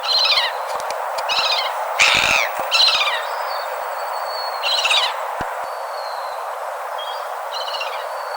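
A bird calling, a short downward-sliding call repeated about six times at uneven intervals, over a steady hiss.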